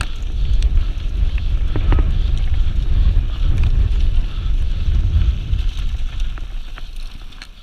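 Wind buffeting the microphone of a camera riding a fast downhill mountain-bike run, a heavy low rush with scattered sharp rattles and knocks from the bike over rough ground. It eases off near the end.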